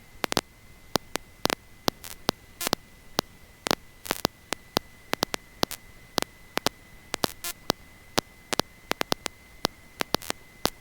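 Crackling electrical static on the audio line: irregular sharp clicks, several a second, over an even hiss and a steady high whine.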